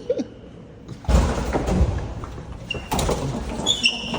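Elevator doors sliding with a rumbling rattle, then an electronic chime near the end.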